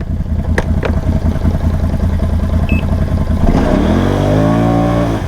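Can-Am Outlander ATV engine running under load while stuck in deep water, then revved up hard about three and a half seconds in and held high, with the rider in four-wheel drive forward and the front diff locked, trying to pull free.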